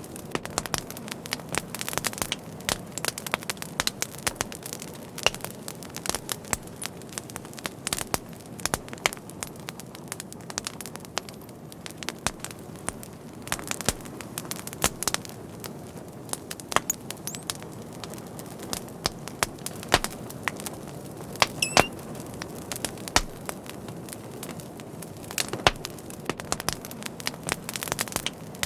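Fire crackling steadily, with irregular sharp pops and snaps over a low, even rush of burning.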